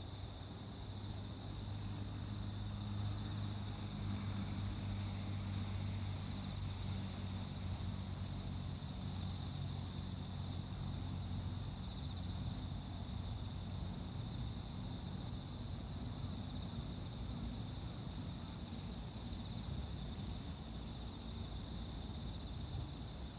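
Late-summer chorus of crickets and other singing insects: steady continuous trills with a fainter pulsing chirp above them. A low rumble underneath, louder than the insects, swells over the first half and then eases.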